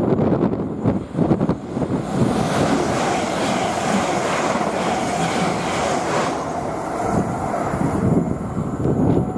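Train passing at speed on the line: a rushing sound of wheels and air that swells about two seconds in and dies away after about six seconds.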